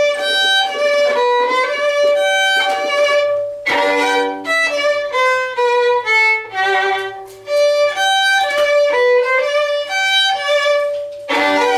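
Solo violin playing a lively melody, moving between quick runs of short notes and a few held notes.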